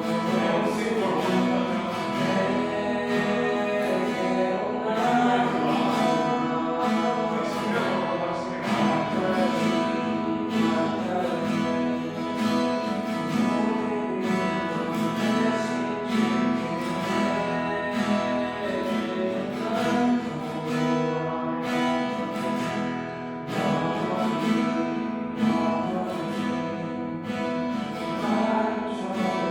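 Acoustic guitar strummed in a steady rhythm under a sung worship song.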